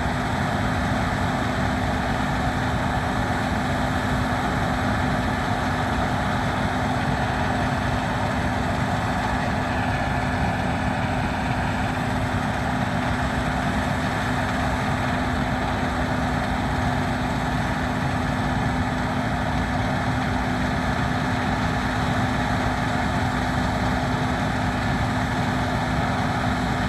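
Case IH 7150 combine harvester running steadily, its engine and threshing machinery making a constant drone with a steady whine held through it.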